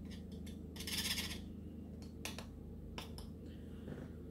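Metal spoon scraping and clicking against the inside of a small tin can, with one longer scrape about a second in and several short clinks after. A steady low hum runs underneath.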